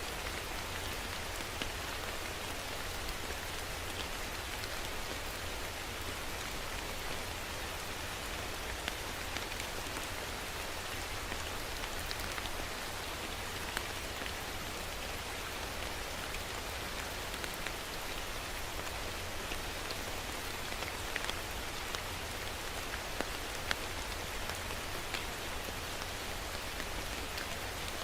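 Steady rain falling on a surface, an even hiss with scattered sharper drop hits and a low rumble underneath.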